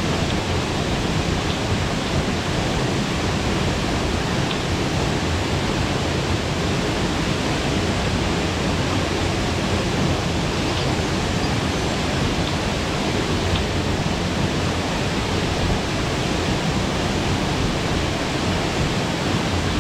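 Waterfall: the steady, unbroken rush of falling water, heaviest in the low range.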